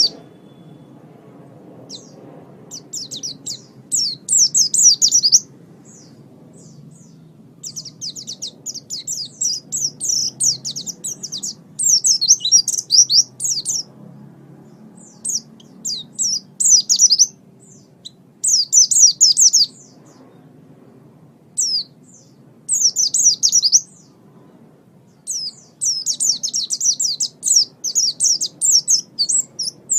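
A small songbird chirping in rapid, high-pitched bursts of one to two seconds with short pauses between, over a faint low hum.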